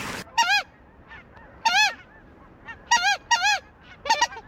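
Canada goose honks: about five loud, clear notes at uneven spacing, coming closer together near the end.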